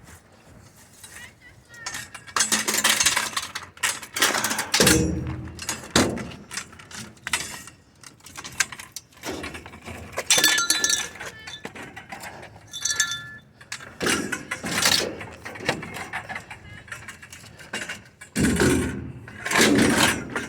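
Sheet-metal duct work being bent and wrenched apart by hand: a run of crinkling, crashing and clanking bursts of metal, with brief high metallic squeals partway through.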